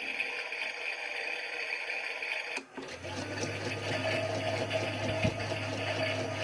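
Small electric motor whirring steadily. It cuts out briefly about two and a half seconds in, then runs again with a deeper steady hum.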